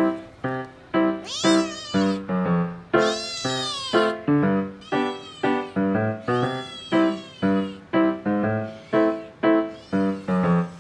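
Three-month-old Munchkin kitten meowing over and over, about five calls, one of them long, as it begs for its food. Background piano music with a steady beat plays under the meows.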